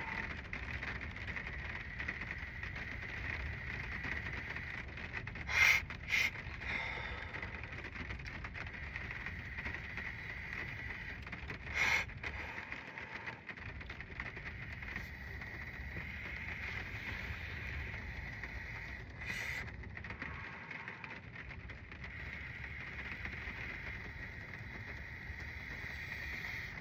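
Steady hiss of rain on a car, heard from inside the cabin, with a few brief knocks about 6, 12 and 19 seconds in.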